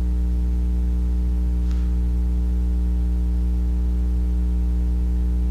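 Steady electrical hum with a stack of overtones, unchanging throughout: mains hum in the recording.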